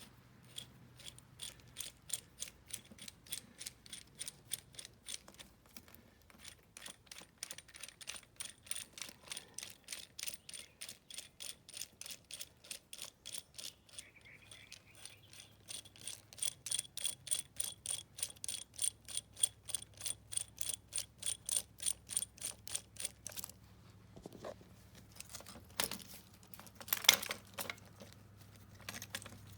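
Ratchet wrench clicking in a steady run of sharp metallic clicks, about three to four a second, then stopping, followed by a few louder metal knocks near the end.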